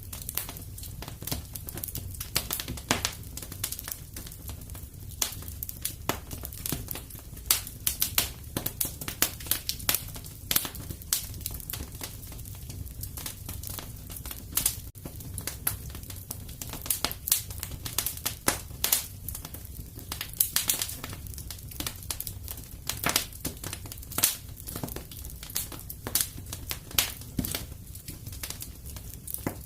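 Wood fire burning in a fireplace: constant irregular sharp crackles and pops over a low steady rumble of the flames.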